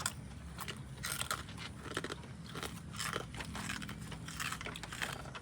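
Someone eating close to the microphone: irregular crunching and chewing of food.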